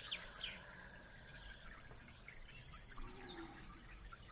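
Faint outdoor quiet with a few distant bird chirps and a thin held whistle-like note in the first second or so.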